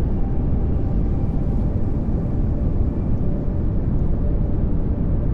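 Steady pink noise, a continuous even hiss weighted toward the low end.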